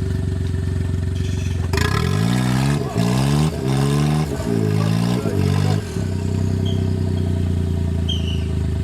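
Off-road vehicle engine running steadily, revved in four or five short bursts, each quickly rising in pitch and cutting off, between about two and six seconds in.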